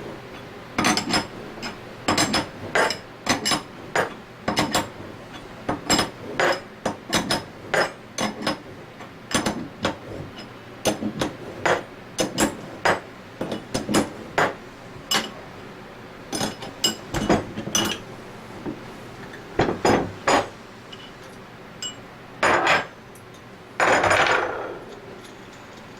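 Hammer tapping repeatedly on metal parts of a scroll pump being taken apart, sharp ringing strikes about once or twice a second at an uneven pace. A longer scraping or rushing noise lasts about a second near the end.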